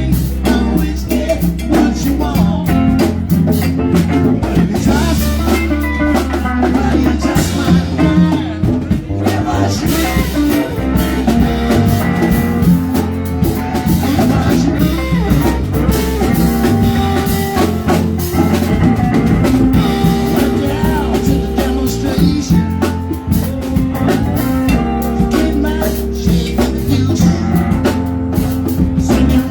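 Live band playing with a full drum kit, bass and guitar, continuous and steady with no clear lead vocal.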